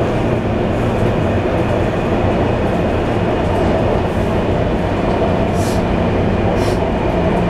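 Passenger train running: a steady rumble of wheels on the rails with a low hum. Two brief faint hisses come near the end.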